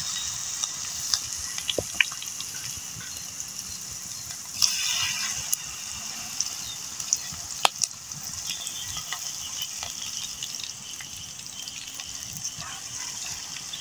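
Batter-coated pandan leaves frying in hot oil over a wood fire: a steady high sizzle with scattered sharp pops, swelling briefly about five seconds in.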